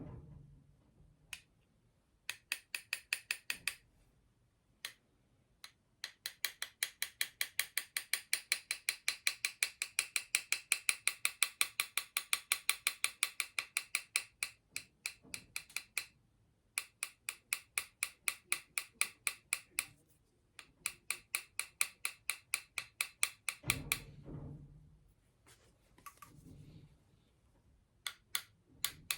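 A small repair hammer tapping quickly and lightly on a flute's metal tube to work out a dent, in runs of about five taps a second with short pauses between runs. Each tap rings brightly.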